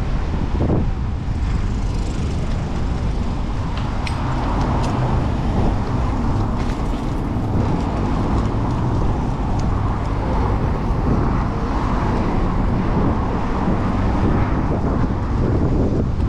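City traffic noise heard from a moving bicycle, with wind buffeting the microphone. The noise stays steady and fairly loud, with a few faint ticks.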